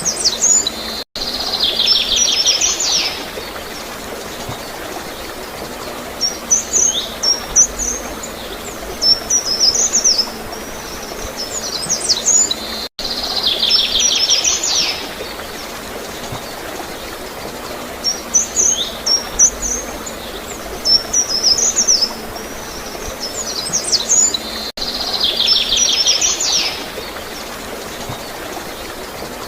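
Songbirds chirping in short high phrases, with a buzzy trill recurring, over steady gurgling water. The same stretch of birdsong repeats about every 12 seconds, each time after a brief dropout.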